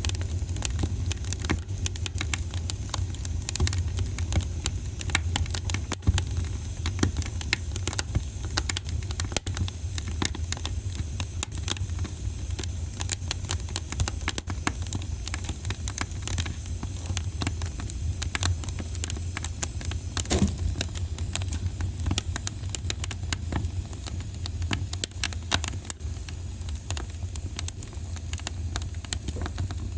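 Wood fire in a fireplace crackling steadily, with frequent sharp pops and snaps over a low rumble of the flames.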